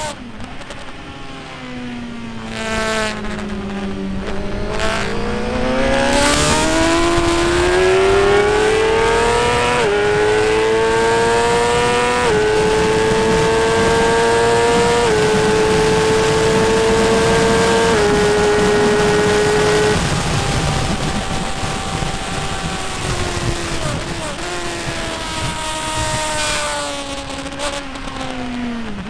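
Motorcycle engine accelerating hard on a race circuit: the revs climb, then step down with four upshifts in quick succession. About two-thirds of the way through, the throttle closes and the engine runs down, with short blips near the end as it is shifted down for a corner.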